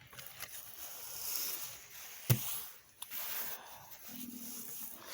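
Rustling and handling of small objects on a workbench, with one sharp knock a little over two seconds in.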